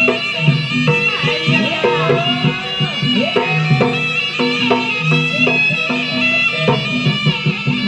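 Javanese jaranan music: a nasal reed wind instrument plays a wavering melody over repeated hand-drum patterns.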